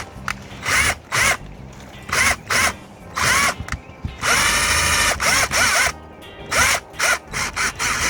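Power drill run in short bursts, its motor whining up and falling back with each squeeze of the trigger, with one longer run about halfway through. It is boring an exploratory hole through a fiberglass deck into rotten, wet core.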